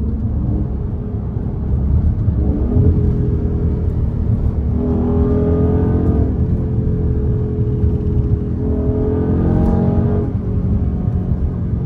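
Straight-piped 392 (6.4-litre) HEMI V8 of a Dodge Charger Scat Pack under acceleration, heard from inside the cabin. The exhaust note climbs in pitch twice, about five seconds in and again about nine seconds in.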